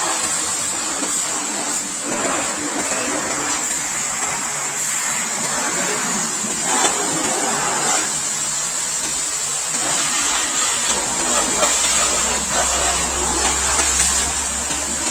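Pressure washer at a bike wash running steadily, its motor humming under the hiss of the water jet; a deeper hum joins about two-thirds of the way through.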